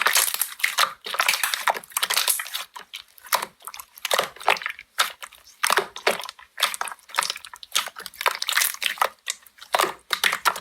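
Slime being squeezed and pressed by hand, with irregular squishing and crackling.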